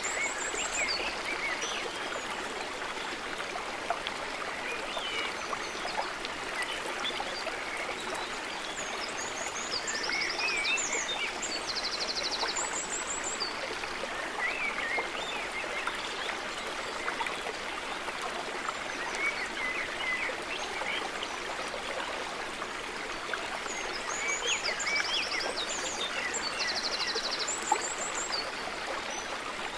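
Running stream babbling steadily, with bird calls in clusters of short high chirps and quick trills that come back about every twelve seconds.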